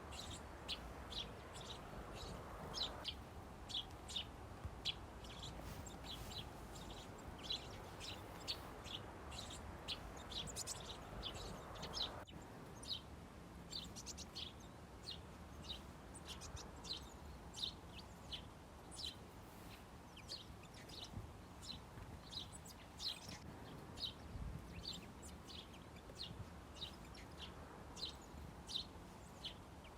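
Small birds chirping: short, high chirps repeating about two to three times a second, over a faint steady background hiss.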